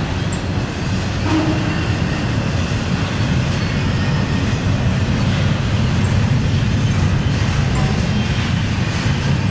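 Double-stack intermodal freight train rolling past close by: a steady, loud rumble of well-car wheels on the rails.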